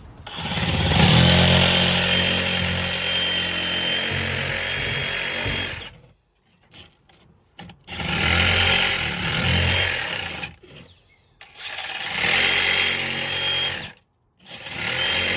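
Reciprocating saw (Sawzall) with a long blade cutting the insulation packed around a boat's fuel tank. It runs in four trigger bursts, the first about six seconds long, each with a steady motor whine that starts and stops abruptly.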